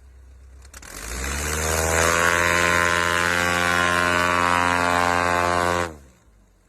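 A light aircraft's propeller engine, stuck in deep snow, revs up from about a second in, rising in pitch to a steady high-power drone, then stops suddenly near the end.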